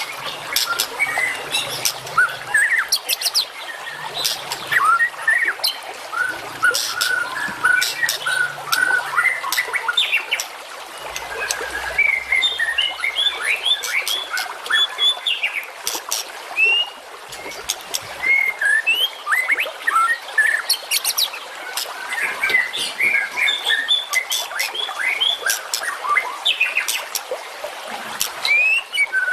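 Dense, fast chirping of small songbirds, many quick rising and falling notes with sharp clicks mixed in, without pause: a masteran birdsong recording played to train caged songbirds.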